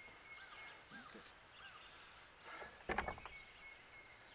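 Faint birdsong: a few short rising-and-falling chirps and a thin, high trill repeating. About three seconds in there is a single dull thump.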